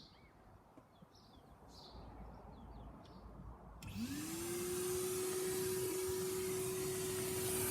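Vacuum cleaner switched on about halfway through: its motor whine rises quickly and then holds steady over a steady rush of air. Before that it is quiet, with a few faint bird chirps.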